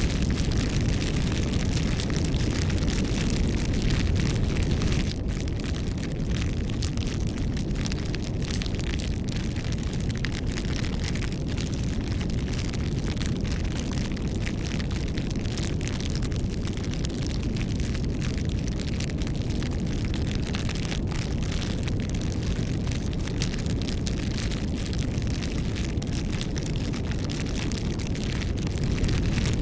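Wood fire burning: a steady low rush of flames with frequent small crackles and pops, a little quieter from about five seconds in.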